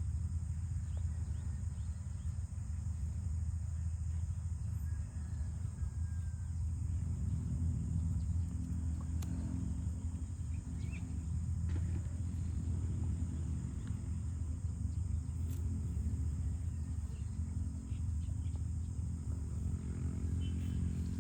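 Cattle in the background: faint, drawn-out low calls over a steady low rumble.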